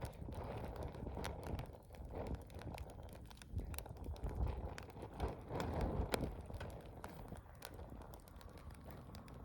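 Wood campfire burning: irregular sharp crackles and pops over a low rumble of flames that swells and fades.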